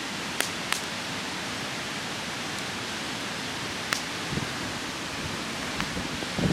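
Wood campfire burning with a steady hiss and a few sharp crackling pops, and a low thump near the end.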